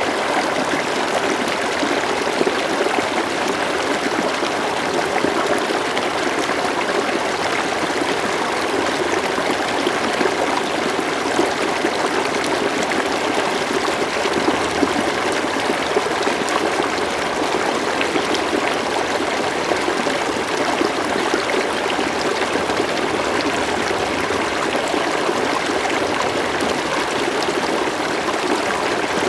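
Steady rush and trickle of a flowing river, an even, continuous water noise with no breaks.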